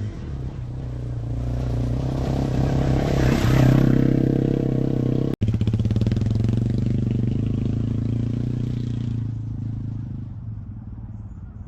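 Yamaha TW200 motorcycle's single-cylinder engine running at a steady note. It swells louder about three seconds in, then fades toward the end as it moves away.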